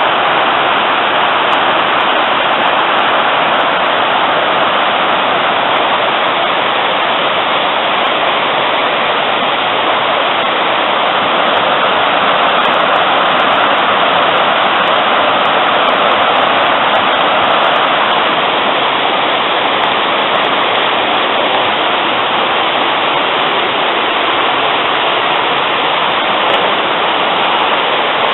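Hillside river running high after rain, tumbling over rocks in a steady, loud rush of water.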